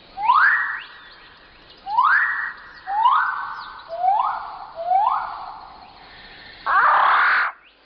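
Riflebird calling: five loud whistles, each sweeping up sharply and then holding before fading. Near the end comes a harsher, noisier rasp lasting under a second.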